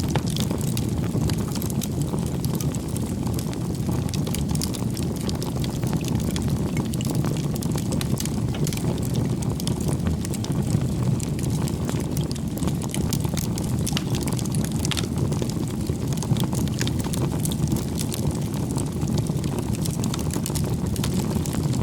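Bonfire of firewood burning: a steady low rumble of the flames with frequent small crackles and pops of the burning wood.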